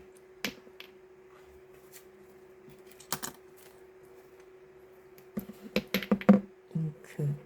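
Ink bottles and stationery being set down on a desk: a few light clicks, then a quick run of louder knocks and clinks in the last two seconds. A faint steady hum runs underneath.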